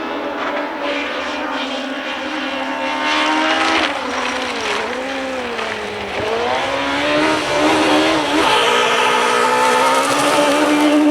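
Rally car engine at high revs. The pitch drops as it comes off the throttle about four seconds in, then climbs again under hard acceleration, growing louder toward the end.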